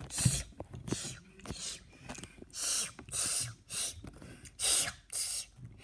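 A person imitating a kitten's licking with their mouth: a series of short, wet, hissy licking and slurping sounds, roughly two a second, with small clicks of the tongue between them.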